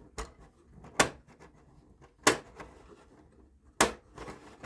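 Sharp clicks and taps of hard plastic as HO model track is handled and pressed into the grooves of a plastic roundhouse floor: three distinct clicks about a second or more apart, with a fainter one just before them.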